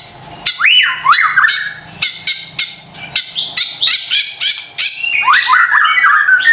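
White-rumped shama (murai batu) singing: a fast, varied run of sharp clicking notes and rising and falling whistles, growing busier about five seconds in.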